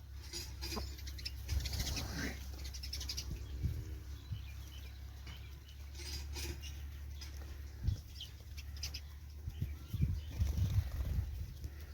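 Aseel roosters flapping their wings and moving about in short, scattered rustles and scuffles, with a steady low rumble underneath.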